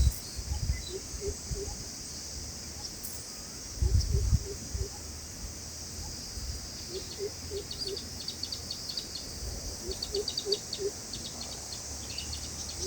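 Steady high insect drone, with several short runs of rapid ticking calls and a low thump about four seconds in.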